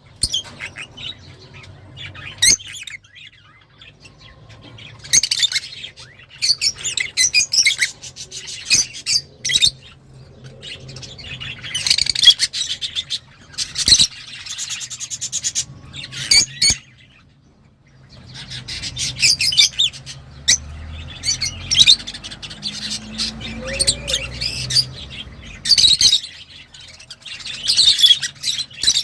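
Lovebirds chirping and squawking in shrill, rapid bursts, with short pauses between the bursts.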